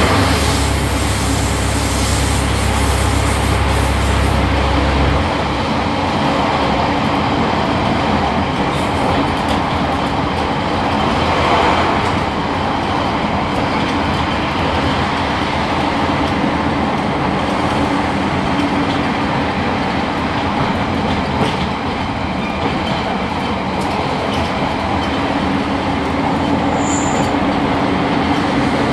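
Cabin running noise of a Class 142 Pacer diesel railbus in motion: a steady rumble of wheels on rail and engine. A deep low hum sits under it for the first five seconds or so, then drops away.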